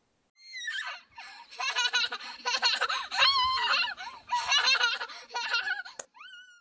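A young child laughing in repeated high-pitched bursts of giggles and squeals.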